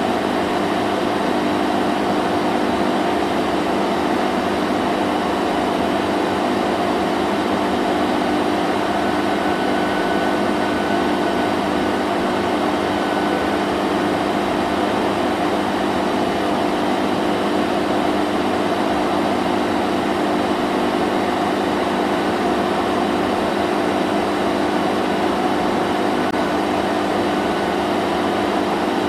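Vacuum cleaner running steadily, a constant whooshing drone with a low motor hum.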